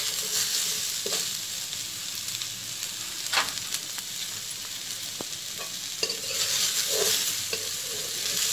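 Cubes of taro corm and potato frying in mustard oil in a kadhai with chopped onion, sizzling steadily while a spatula stirs them, with a few short scrapes and taps of the spatula on the pan.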